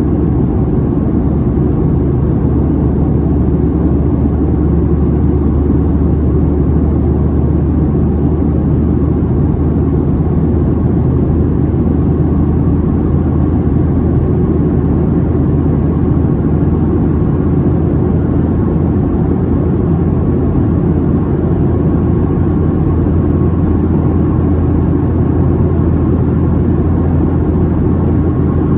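Steady drone inside the passenger cabin of a Boeing 737-700 in flight: engine and airflow noise, deep and even, with no change in pitch or level.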